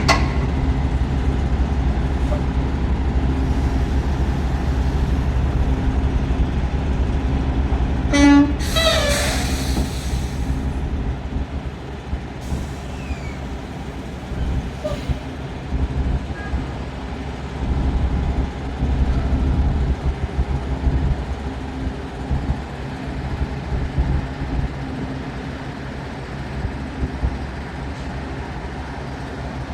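Semi-truck running on the road, a steady low engine drone. About eight seconds in there is a brief tone, followed at once by a loud hiss lasting about a second and a half.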